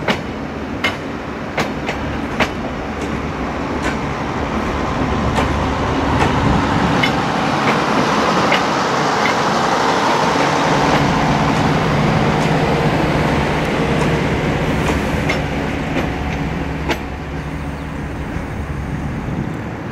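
Passenger train rolling past, its wheels clicking over rail joints about once a second. Then the locomotive at the rear of the train goes by with a steady engine drone that swells and fades as the train pulls away.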